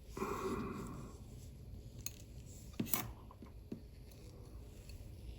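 Faint small metal clicks and taps from watchmaker's tools handling parts of an FE 233-68 watch movement, about four light ticks spread over the middle seconds after a soft rustle.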